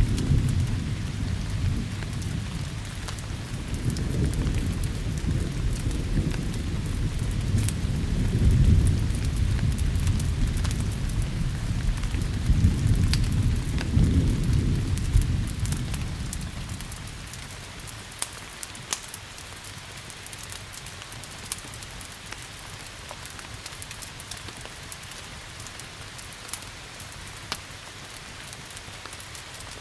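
Rolling thunder rumbling over steady rain, swelling twice and dying away a little past halfway. After that the rain goes on alone, with scattered sharp crackles of a wood fire.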